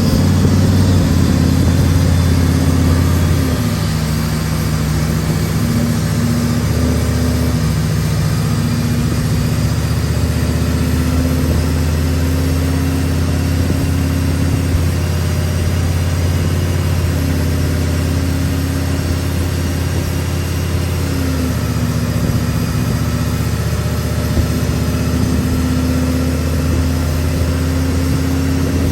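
Turbocharged Chevrolet Silverado's LS V8 running at a steady speed with an even, low engine note that eases off slightly about three and a half seconds in.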